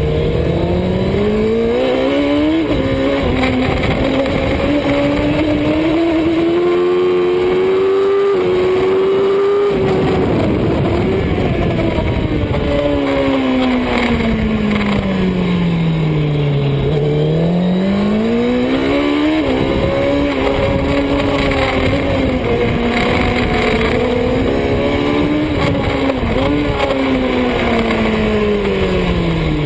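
Superbike engine at racing speed, its pitch climbing through the gears with sharp drops at each upshift. It then falls steadily as the bike slows and climbs again with quick upshifts near the end.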